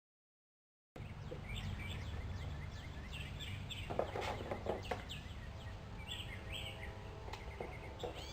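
Dead silence, then about a second in small birds start chirping repeatedly in short, sharp, falling chirps over a low steady rumble. A few clicks come about three to four seconds in.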